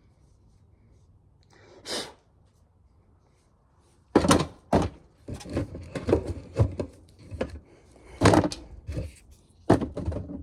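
Ears of corn dropped into an empty tub: a single thunk about two seconds in, then a quick, uneven run of thunks and knocks from about four seconds on.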